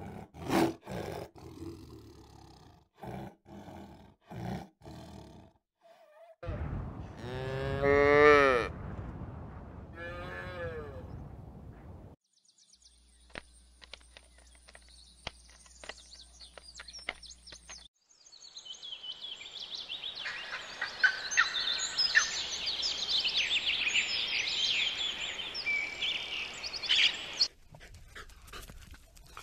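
A series of animal sounds: scattered clicks and knocks, then one long drawn-out animal call that rises and then falls in pitch. Later comes a dense chorus of high chirping calls that stops suddenly near the end.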